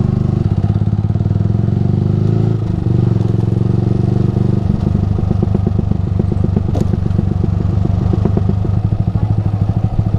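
Yamaha R15 V3's 155 cc single-cylinder engine running through an aftermarket Ronin Musashi exhaust while riding a broken road. The note changes about two and a half seconds in and settles into a lower, evenly pulsing beat from about five seconds in, with a sharp knock near seven seconds.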